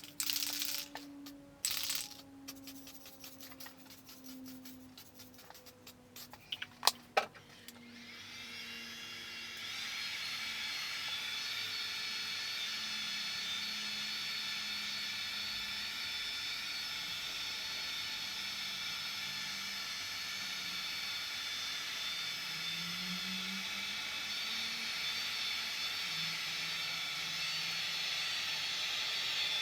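A few scattered light taps and clicks, then a power tool starts about eight seconds in and runs steadily with a high whine over a hiss, used in finishing a car body panel after the dent has been roughly knocked out.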